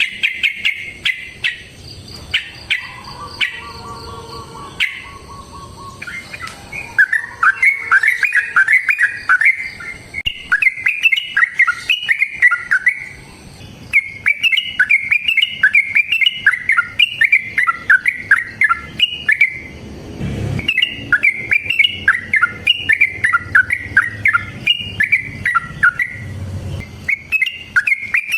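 Yellow-vented bulbul (trucukan) singing long, fast chattering phrases of bubbling notes, in runs of several seconds broken by short pauses. This is the long 'ropel' song that keepers play to draw a caged trucuk into song. Opens with a few quicker clicking notes and a short lower whistle, and a couple of dull low thumps come later.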